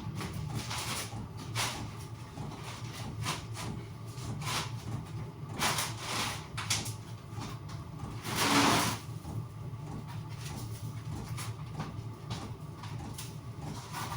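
Thick mineral shed roofing felt being handled and scraped: scattered rustles and scrapes, the loudest about eight and a half seconds in, over a steady low hum.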